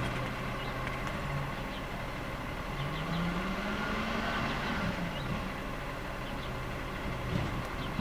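Garbage truck's diesel engine running steadily, revving up about three seconds in and settling back down a couple of seconds later.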